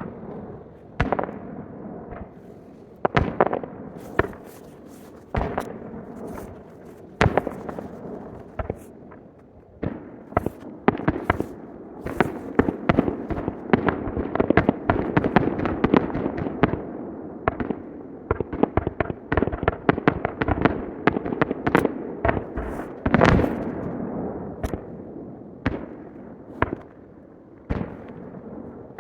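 Aerial fireworks shells bursting one after another in sharp bangs, with crackle filling the gaps, building to a dense barrage through the middle before thinning out again. The recording plays at three times normal speed, so the bursts come unnaturally fast.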